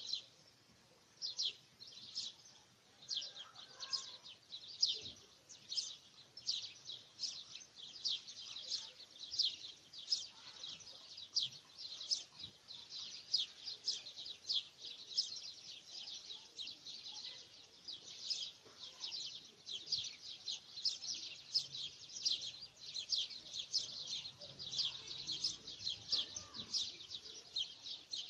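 Birds chirping: a steady stream of short, high chirps, about two or three a second, without a break.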